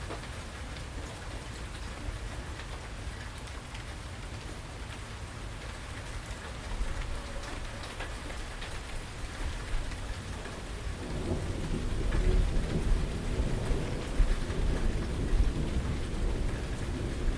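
Steady rain falling, with a low rumble of thunder that builds about two-thirds of the way through and rolls on to the end.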